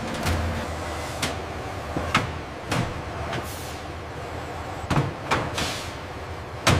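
Irregular mechanical clanks and knocks, about ten at uneven spacing and loudest near the end, over a steady low machinery hum.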